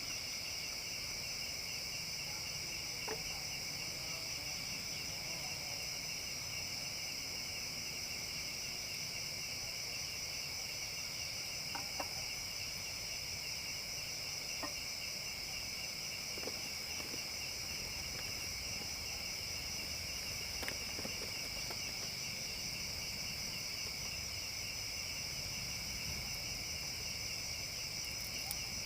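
A steady chorus of crickets or similar insects, chirring without pause in two high-pitched bands. A few faint, scattered clicks sound now and then.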